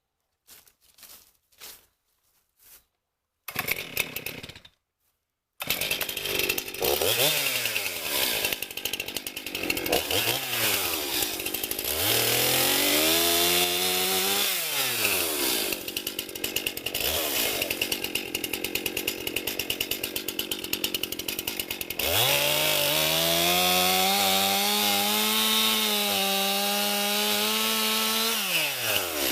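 Chainsaw starting about five seconds in, after a few clicks and a short rasp. It is revved up and down several times, then held at high revs for a long stretch before dropping back at the very end.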